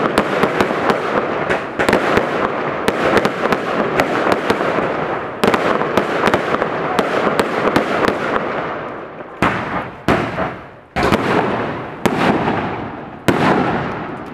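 Aerial fireworks going off: a dense run of rapid cracks and crackling, then about nine seconds in, five separate loud bangs roughly a second apart, each followed by a fading crackle.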